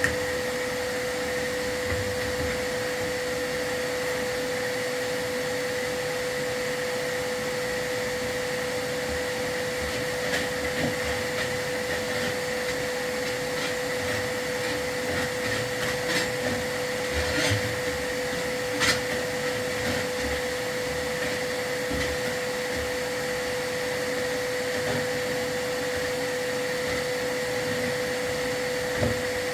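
Vacuum cleaner running steadily at an even pitch, the kind a chimney sweep keeps running to draw soot and dust out of the fireplace. A few short knocks break in near the middle and near the end.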